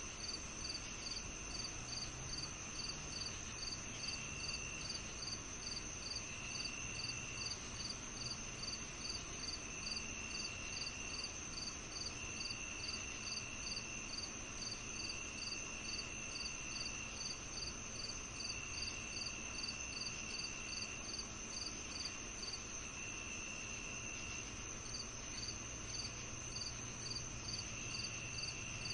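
Summer-evening chorus of crickets and other insects. One keeps up a steady high trill, a second chirps about three times a second with a short pause about two-thirds of the way through, and a lower trill comes in repeated bursts of a second or so.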